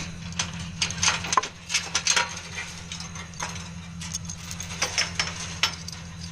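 Small steel chain clinking and rattling in irregular sharp metallic clicks as it is worked loose and pulled free, over the steady low hum of an idling Ford 600 tractor engine.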